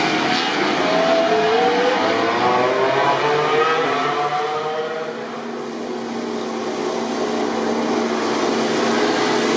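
MotoGP racing motorcycle engines accelerating hard, the pitch climbing in steps through upshifts and then easing off about halfway through, followed by a steadier engine note.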